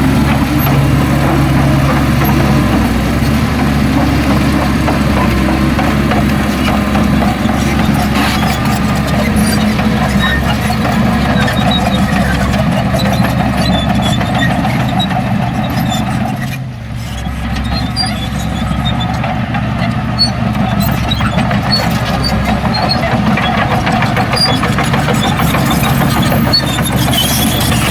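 Heavy diesel earthmoving machinery running steadily, the engine drone of a bulldozer and dump truck at work. The level dips briefly about two-thirds of the way through.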